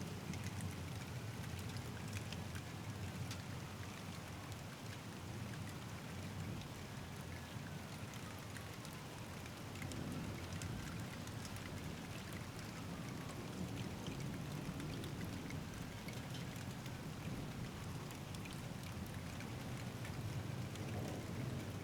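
Steady thunderstorm rain falling outdoors, a continuous hiss with many individual drops ticking through it.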